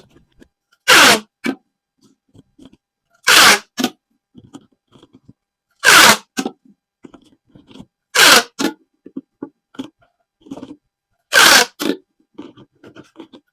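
Corrugated plastic pop tubes being stretched and squeezed. Five loud ribbed zipping strokes come about every two and a half seconds, each followed by a short softer one, with light crackles between.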